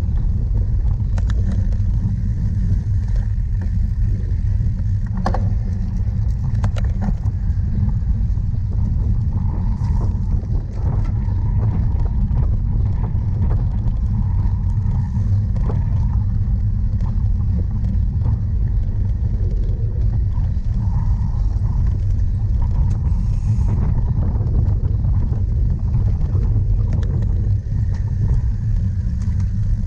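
Steady heavy rumble of wind and ground vibration on a camera riding on a cyclocross bike during a race, with a few sharp clicks and rattles around five and seven seconds in.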